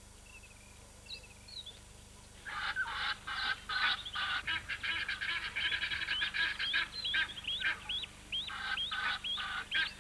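Egyptian geese calling: a rapid run of harsh, repeated honking calls begins about two and a half seconds in. Near the end it breaks into separate sharp, upward-sweeping notes.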